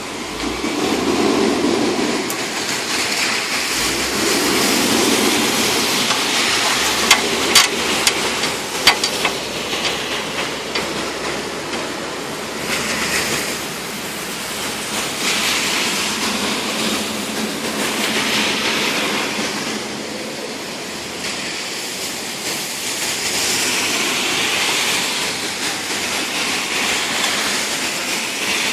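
Rain pouring down: a steady hiss that swells and eases in slow waves, with a few sharp clicks about seven to nine seconds in.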